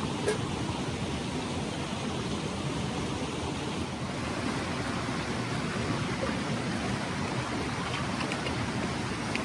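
Clear mountain stream flowing steadily, an even rush of water, with a faint click just after the start.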